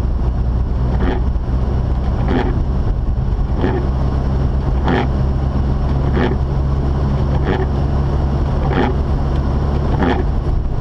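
Mazda RX-8 cabin noise while driving: a steady low drone from the rotary engine and the road. Over it, a windshield wiper swishes across the glass about once every 1.3 seconds.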